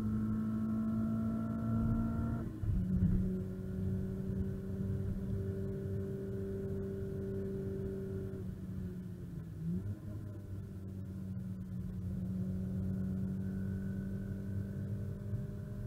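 Renault Clio RS R27's 2.0-litre inline-four engine under hard acceleration, heard from inside the cabin. Its note drops sharply with an upshift about two and a half seconds in, then holds a steady drone at high revs, dips briefly around ten seconds in, and slowly climbs again over road and wind rumble.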